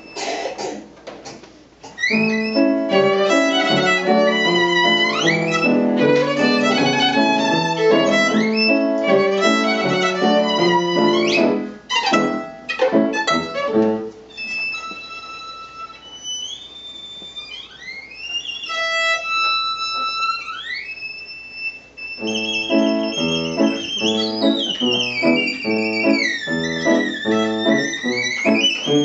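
Solo violin with piano accompaniment, playing fast runs and then high sliding notes in a birdlike imitation. The accompaniment drops back for several seconds in the middle while the violin slides alone, then returns.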